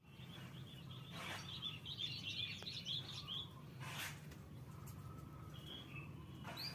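Canary chirping: a quick run of short, high chirps, then a few scattered calls, with a couple of soft knocks in between.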